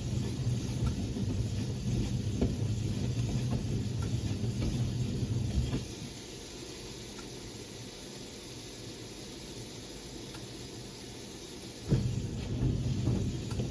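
Siemens WA4600 washing machine drum turning the wet wash load, a low motor hum with small knocks for about six seconds, then stopping for about six seconds before starting up again near the end, the on-off reversing rhythm of the wash phase. A steady hiss runs underneath throughout.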